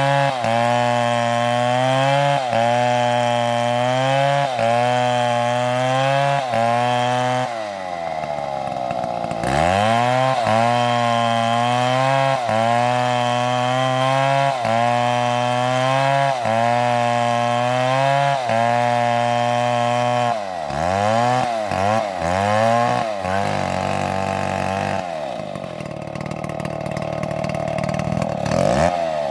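Chainsaw running at high revs while cutting wood, its pitch dipping rhythmically about once a second under load. Around 8 s the revs fall away and then climb again. Later the engine blips several times and runs at a lower speed before revving up near the end.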